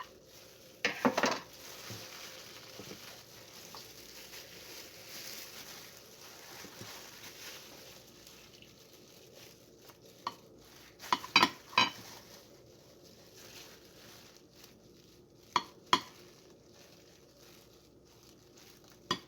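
Cutlery and dishes clinking in a few sharp, separate knocks, some in quick pairs, with a faint hiss between them, as cake is cut and served.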